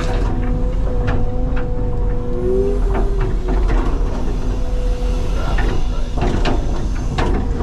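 CAT 323 excavator heard from the cab: the diesel engine and hydraulics run steadily with a hum that shifts pitch briefly, while the bucket and machine give several sharp knocks and clanks.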